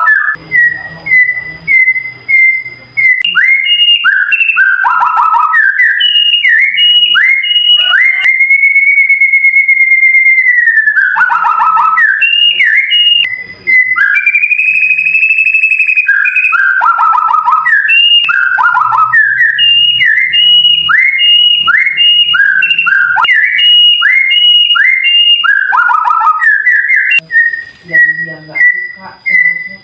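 White-rumped shama (murai batu) singing: quick runs of sharp, clear whistled notes, mostly sweeping downward, broken twice by a long, steady rolling trill lasting two to three seconds.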